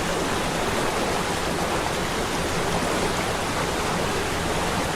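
Waterfall: steady rushing water.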